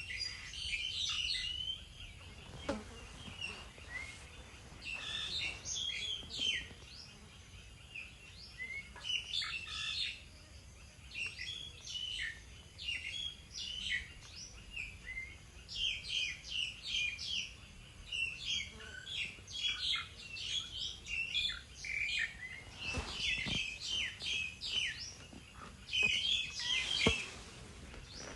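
Small songbirds chirping and twittering in quick clusters of short, high notes that keep recurring, with a few faint knocks in between.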